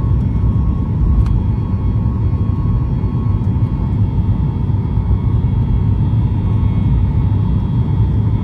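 Steady rumble of a Boeing 737-8 MAX's CFM LEAP-1B jet engines heard inside the cabin, with a faint steady whine over it and a small click about a second in.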